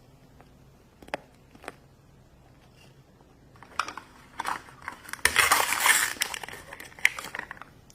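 Plastic packaging of a surprise toy crinkling and tearing as it is opened by hand: a few light clicks, then a longer stretch of crinkling, loudest just past the middle.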